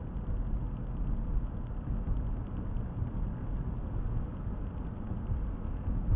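Car driving along city streets, a steady low rumble of engine and tyre noise heard from inside the cabin.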